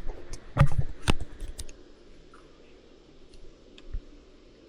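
Packages of soft-plastic fishing lures being handled and set down on a surface: several sharp clicks and taps in the first second and a half, then a quiet stretch with a few faint ticks.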